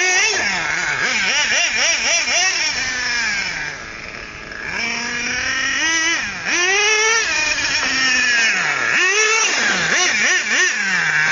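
XRAY XT8 RC car's OS 30 nitro engine revving up and down again and again as the car is driven, dropping off for about a second near the middle before revving hard once more.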